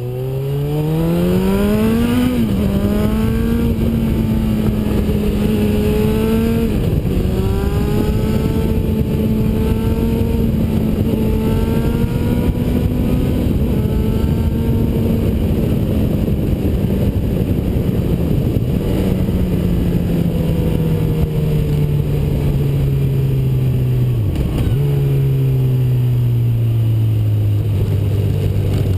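Honda CB1000R's inline-four engine through an aftermarket Ixil exhaust without its baffle, pulling hard in first gear with the revs climbing fast, then shifting up about two seconds in. It holds high revs for a while with more shifts, then eases off and the pitch sinks slowly as the bike slows, with a brief drop in revs near the end.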